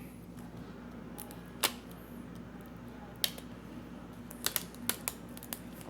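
Scattered sharp clicks and taps of a small screwdriver and plastic laptop parts being handled during disassembly, a few single clicks and then a quick cluster near the end, over a steady low hum.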